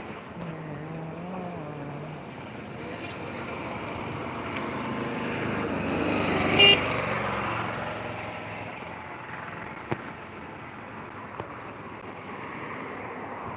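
Road traffic: a vehicle passes, growing louder to a peak about six and a half seconds in, where a short horn toot sounds, then fading away.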